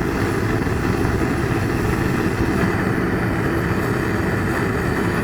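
Gas weed burner torch firing a raku kiln with a steady roar, its valve opened up a bit more to raise the kiln's temperature.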